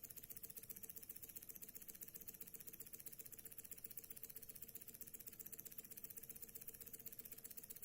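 Stirling engine running steadily and quietly, making a fast, even ticking with a faint steady hum beneath it.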